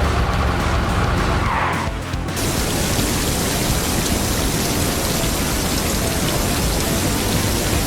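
Cartoon background music, then from about two seconds in a steady, loud rushing hiss that covers it, like a sound effect of spraying water or skidding tyres.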